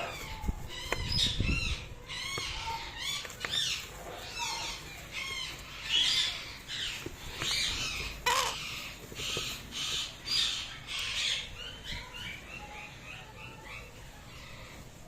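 Indian ringneck parrots making a rapid run of short, chirpy, arching squawks and calls, with a low bump about a second in.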